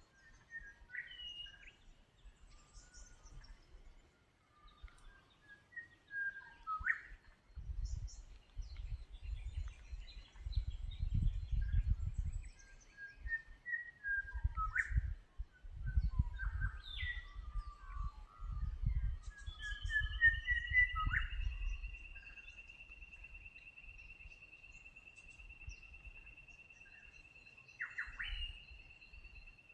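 Several birds calling and singing with short whistled notes that slide up and down, including a quick run of falling notes about two-thirds through. Wind gusts rumble on the microphone through the middle, and a steady high tone starts about two-thirds through and holds.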